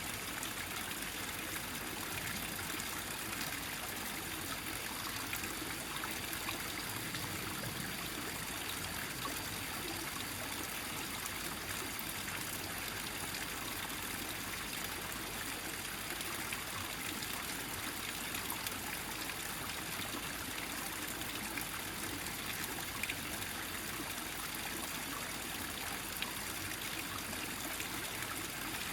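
Small mountain stream running over rocks in one gathered flow: a steady trickling and splashing.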